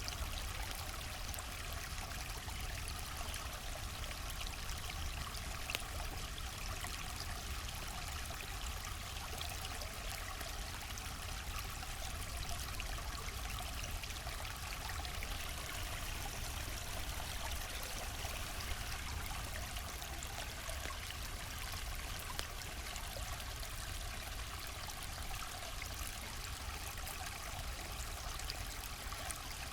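River water flowing steadily, with scattered light crackles from a campfire, one sharper pop about six seconds in.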